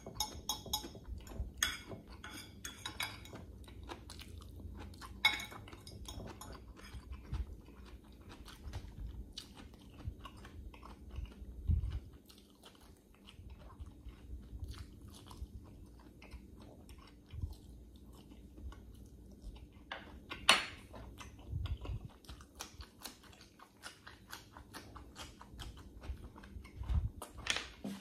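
Close-up mouth sounds of a person chewing and biting food: a hotdog and the last of a plate of pancit canton noodles. A metal fork clinks and scrapes against a glass dish a few times near the start.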